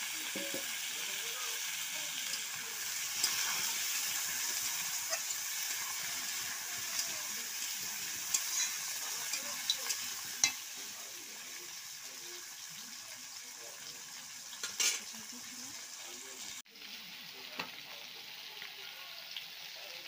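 Potato wedges sizzling in hot oil in a black iron kadai, stirred with a metal spatula that clicks and scrapes against the pan now and then. The sizzle drops suddenly about three quarters of the way through and goes on more quietly.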